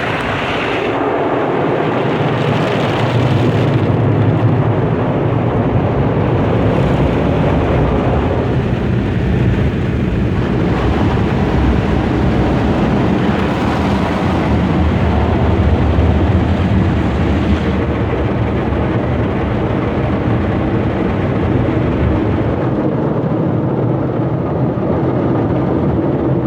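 Tammermatic T700 roll-over car wash working over the car, heard from inside the cabin: a loud, steady rush of machinery and spray with a low hum beneath it.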